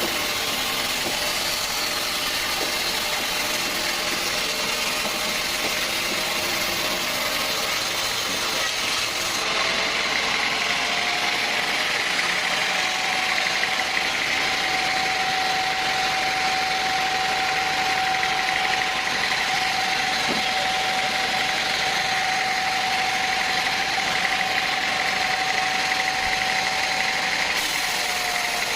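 Sawmill running steadily. About ten seconds in, a steady whine rises over the machine noise and holds, then drops away shortly before the end.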